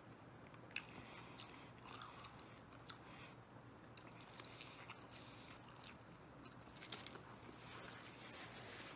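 Faint biting and chewing of a slice of deep-dish Detroit-style pizza, with scattered small sharp mouth clicks.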